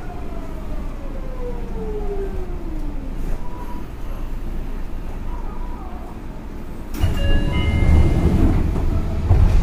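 Running sound of a Seibu 6000 series electric train, with the whine of its Hitachi GTO VVVF inverter falling in pitch over the wheels' rumble. About seven seconds in, the rumble grows louder and several steady high tones join it.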